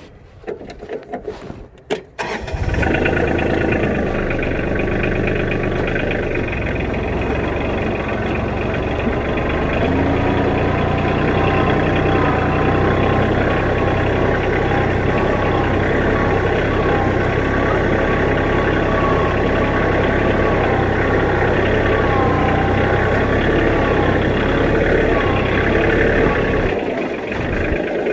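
An engine cranked for about two seconds, catching and then running steadily. Its low, even note falls away about a second before the end.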